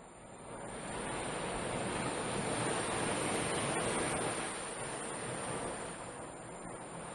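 Ocean surf: a wave breaking and washing up the beach, swelling to a peak in the middle and easing off near the end, over a steady high-pitched hiss.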